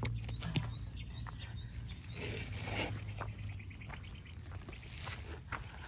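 A bird giving a quick series of about six short rising chirps in the first two seconds, over scattered footstep-like clicks and a steady low hum.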